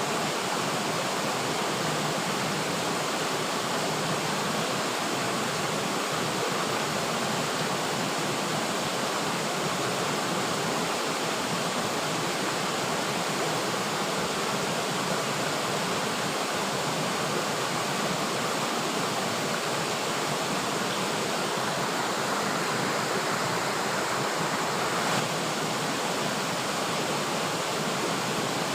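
River water flowing steadily over rocks, an even rushing.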